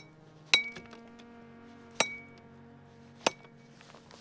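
A fish bat clubbing a landed lingcod on the head to kill it: three sharp strikes, each with a brief ring, about a second and a half apart.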